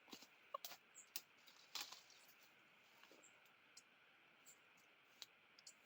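Near silence, broken by faint scattered light clicks and ticks over a faint steady hiss.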